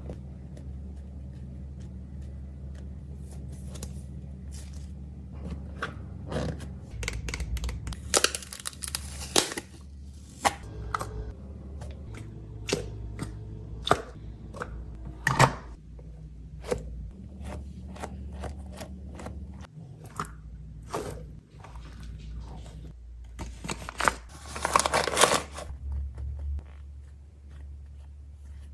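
Food packaging being handled: scattered clicks and taps, with two louder spells of crinkling or tearing, about eight seconds in and again near the end, over a low steady hum.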